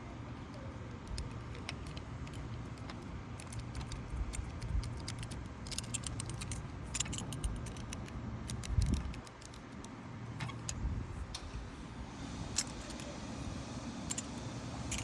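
Light clicks and small rattles from handling a windshield wiper blade's metal frame and rubber insert while the extra rubber is trimmed, over a steady low rumble. There is a duller bump about nine seconds in.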